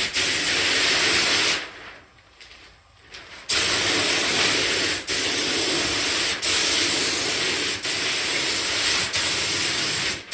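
Compressed-air paint spray gun spraying thinned paint at 60 psi, a loud hiss. A short burst, a pause of about two seconds, then a long spray broken by brief dips every second or so.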